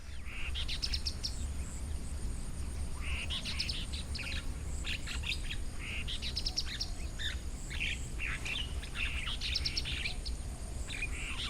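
Small bird calling in repeated bursts of quick, high chattering notes, with short pauses between the phrases.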